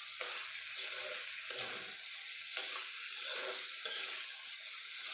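Chicken, potato and chopped banana flower sizzling in oil in a frying pan while a spatula scrapes and stirs them in repeated strokes. The meat is being fried down to the stage where its oil starts to separate.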